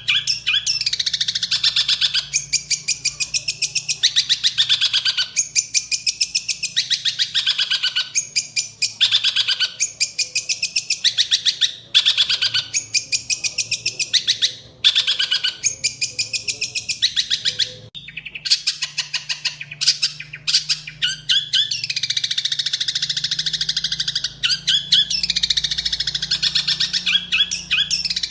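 Long-tailed shrike (cendet) singing, fast harsh chattering phrases of rapidly repeated high notes, each one to two seconds long with short breaks between them. The song is filled with mimicry, including Eurasian tree sparrow calls.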